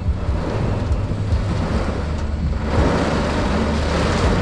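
Heavy pouring rain and gusting wind heard from inside a car: a loud, steady rushing over a deep rumble, swelling about three seconds in.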